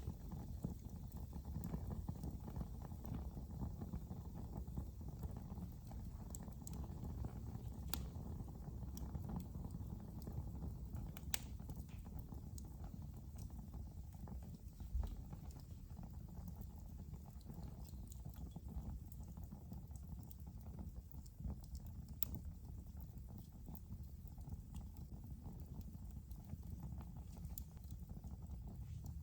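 Wood fire burning in a fireplace: a steady low rumble of the flames with constant soft crackling and a few sharper pops now and then.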